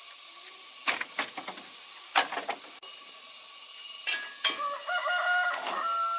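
A rooster crowing: one long held call that begins about two-thirds of the way in and falls slightly as it ends. Before it, a few sharp knocks.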